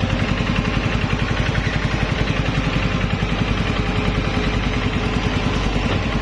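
Kubota L5018SP tractor's diesel engine running steadily, with a fast even pulsing and no change in speed.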